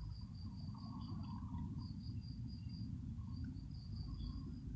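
An insect trilling on one steady high pitch, broken by short gaps several times, over a steady low background noise.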